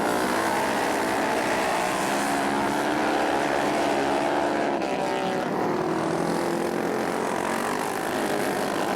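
Several flat-track racing motorcycle engines running together, their pitch shifting about five seconds in.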